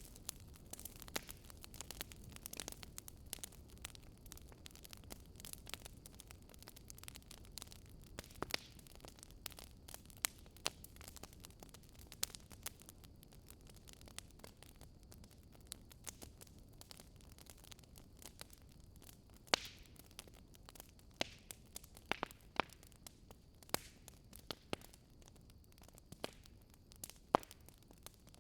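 Fire crackling: irregular sharp snaps and pops over a soft, steady hiss.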